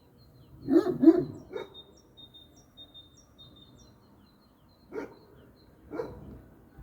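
A dog barking: three quick barks about a second in, then two single barks near the end. A bird's short high chirps repeat faintly in between.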